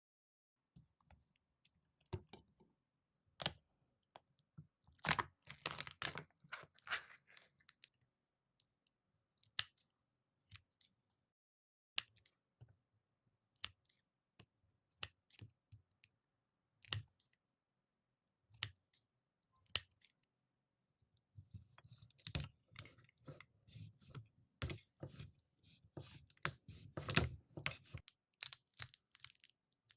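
Close-miked eating sounds: irregular crunchy chewing and small clicks of utensils and food, coming in clusters with short quiet gaps.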